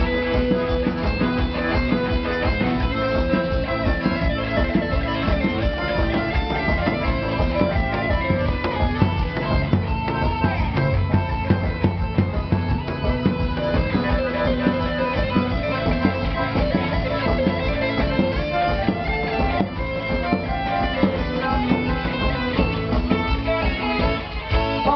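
Live band music with a steady beat, a lead guitar and a bowed-string melody, played loud through a PA system.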